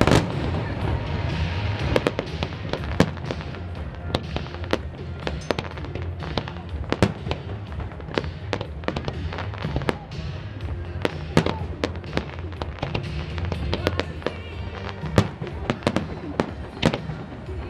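Aerial fireworks bursting with many sharp bangs and crackles at irregular intervals, over loud disco music from the pyromusical show's soundtrack.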